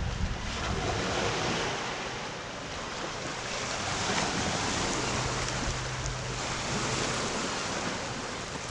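Sea waves washing against a rocky shoreline, with wind gusting on the microphone.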